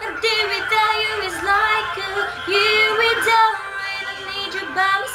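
A female voice singing a pop ballad without clear words, holding notes and sliding between them.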